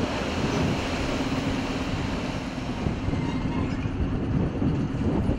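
Electric multiple unit train rolling slowly past and coming to a stop, its wheels and running gear rumbling over the rails, with a steady low hum underneath.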